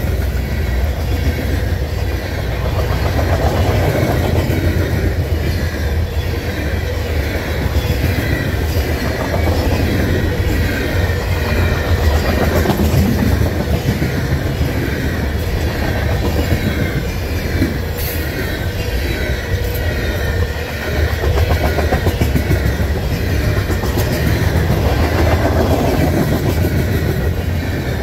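Loaded covered grain hopper cars of a freight train rolling past, steel wheels clattering on the rails over a steady low rumble.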